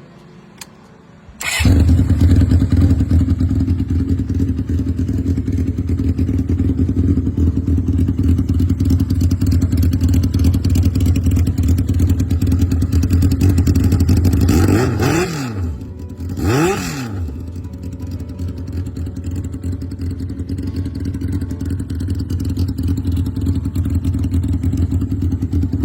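1980 Honda CB750 chopper's four-cylinder engine cuts in abruptly and runs at a steady idle. Its throttle is blipped twice about two-thirds of the way through, the pitch rising and falling each time, before it settles back to idle.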